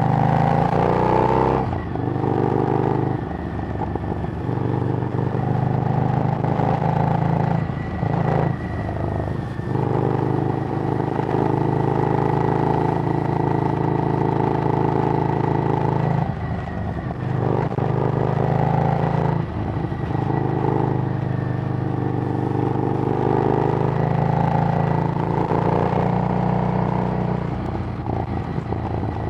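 Harley-Davidson Street Rod's 750 cc V-twin running through a Screamin' Eagle exhaust while being ridden. The engine note climbs at the start, then holds steady, broken by several short dips where the throttle is rolled off and back on.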